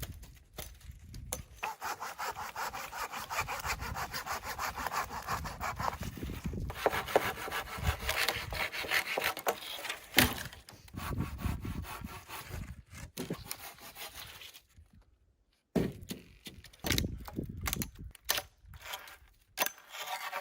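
A hand saw cutting through wood with steady back-and-forth strokes. The sawing stops about three-quarters of the way through, followed by a few short rasps and knocks.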